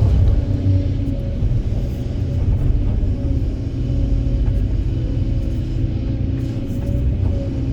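Heavy diesel machinery running steadily: an excavator loading a dump truck, heard as a deep engine rumble with a steady drone above it.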